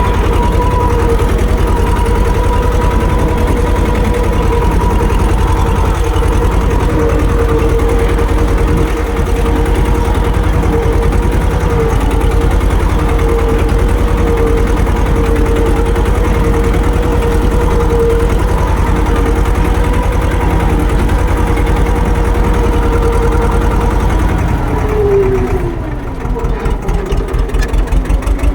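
Tractor's diesel engine running steadily with a constant whine over its low throb. About 25 seconds in, the whine falls in pitch and the engine drops back to a slower, uneven beat.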